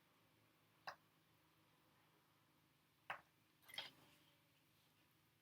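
Near silence broken by three faint, brief clicks: one about a second in and two close together past the three-second mark.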